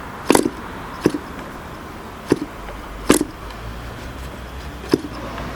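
K&B .40 R/C glow engine being flipped over by hand, five sharp pops about a second apart, without catching and running.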